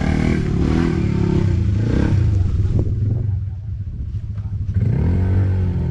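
ATV engine running, its sound dropping away for a moment past the middle, then revving up and easing off again near the end.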